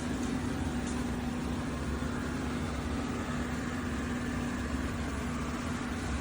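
eufy RoboVac 11S Max robot vacuum running steadily: a constant motor and suction hum with one steady low tone.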